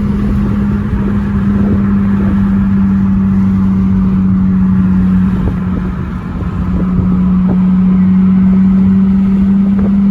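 Muffler-deleted 2014 Honda Civic Si's 2.4-litre four-cylinder exhaust running at a steady cruise with one constant drone note. It eases off briefly about six seconds in, then picks back up.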